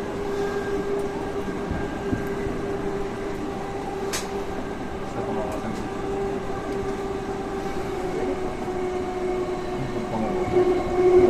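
Saitama Railway 2000 series electric train running, heard from inside the front car: steady running noise with a constant hum that drops slightly in pitch near the end. One sharp click comes about four seconds in.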